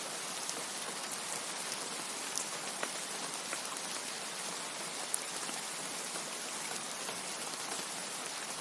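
Steady rain: an even, dense hiss with scattered sharper drop ticks.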